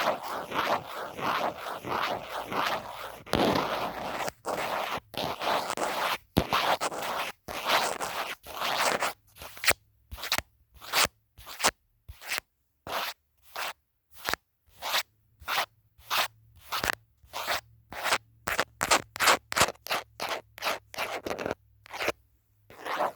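A phone case being scratched: a dense run of quick, overlapping scratches, then from about nine seconds in separate short strokes at about two to three a second with brief silences between.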